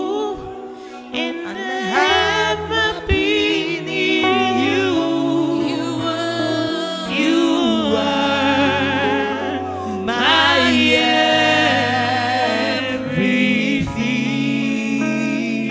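Gospel worship singing: voices with vibrato over a keyboard's steady bass notes.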